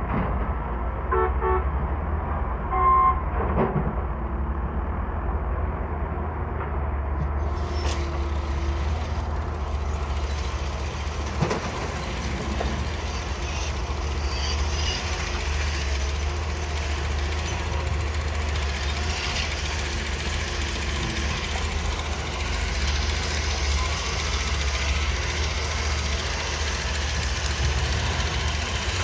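Doosan DX140 excavator's diesel engine running steadily with a deep rumble, while a vehicle horn gives two short toots near the start. From several seconds in, a rougher, hissing working noise is added on top of the engine.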